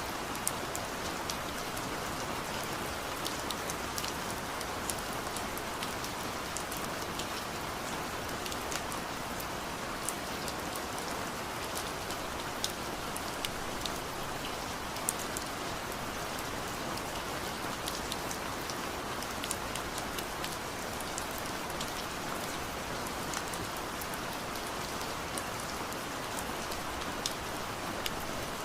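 Steady rain falling, a constant hiss with many scattered drops tapping on a surface.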